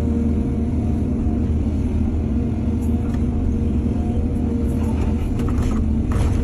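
Excavator diesel engine running steadily with a low hum, with a few short knocks and rattles near the end.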